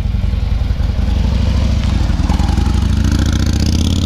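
Harley-Davidson Street Glide's V-twin engine running under the rider, its pitch rising gradually from about two seconds in as the bike picks up speed, with a rushing hiss joining near the end.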